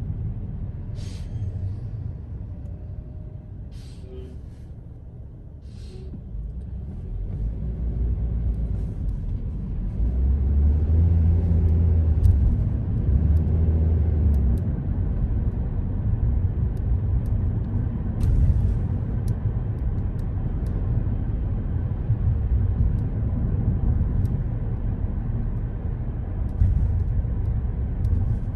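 Car driving in city traffic: a steady low rumble of road and engine noise that swells about a third of the way in. Several short hisses break through, a few in the first seconds and one more past the middle.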